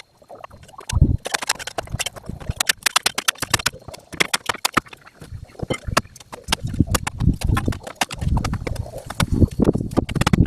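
A hand digging tool scraping and chopping into dirt and stones, a rapid run of sharp scrapes and clicks with heavier dull thuds in the second half, leveling a high spot of ground.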